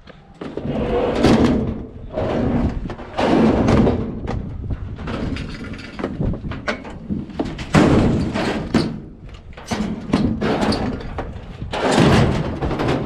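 Scrap being handled and moved: a string of irregular thumps, knocks and scrapes.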